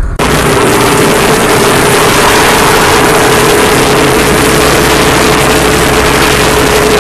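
Steady, loud vehicle noise, a hiss of road and wind over a low engine rumble with a faint steady hum, cutting in abruptly just after the start.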